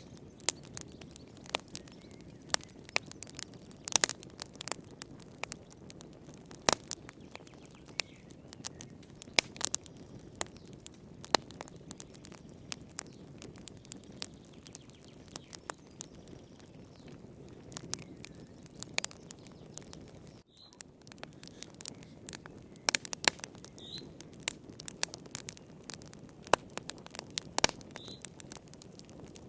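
Wood fire crackling in a fireplace: irregular sharp pops and snaps over a low steady rush of burning. The sound drops out for a split second about two-thirds through.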